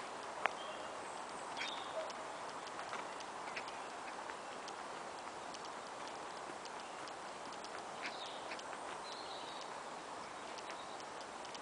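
Light footsteps on a woodland path, soft clicks about one to two a second, under a steady outdoor hush. Birds give a few short high chirps near the start and again later.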